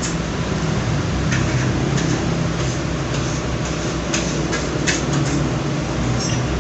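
Eating sounds: scattered short clicks of chewing and fingers picking at food, over a steady low hum.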